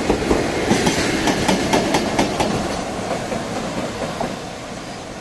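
Container freight train's wagon wheels clacking in a regular rhythm over rail joints as the last wagons roll past, over a steady rumble. About three seconds in the clacks die away and the rumble fades as the rear EF210 banking locomotive passes and the train moves off.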